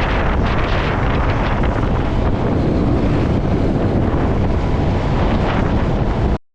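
Heavy wind buffeting on the microphone of a motorcycle at road speed, a steady rushing roar that cuts off suddenly near the end.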